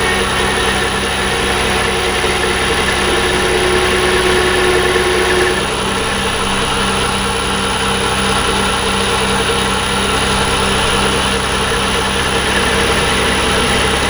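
Metal lathe running steadily, a motor and drive hum with a layered whine. An extra tone that sounds early on stops a little before halfway through.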